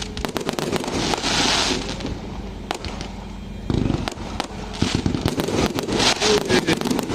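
Fireworks going off: a rapid, irregular string of sharp bangs and pops with stretches of dense crackling.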